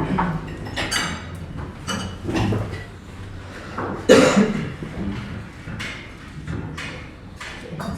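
Breakfast-room clatter: dishes and cutlery clinking and knocking, with a louder knock about four seconds in, over a low murmur of voices.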